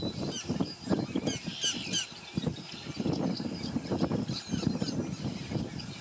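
Birds calling: a run of short, high chirps and squeaks, densest about one to two seconds in, over a low rumbling noise.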